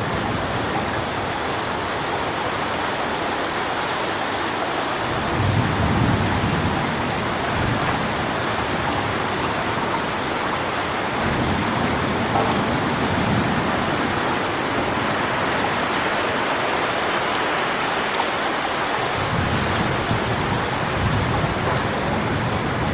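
Strong wind rushing through coconut palm fronds: a steady hiss, with low rumbling gusts that swell and fade several times.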